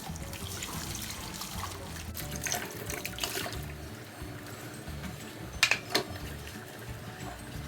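Water trickling in a sink, with a few small handling noises and two or three short, sharp clicks about six seconds in.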